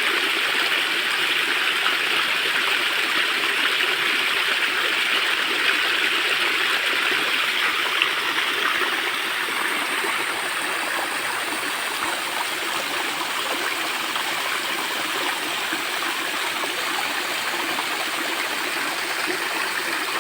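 Waterfall running with a steady, even rush of falling water, easing a little from about ten seconds in; the falls carry only a thin flow, their water diverted by bridge works upstream. A single brief knock about eight seconds in.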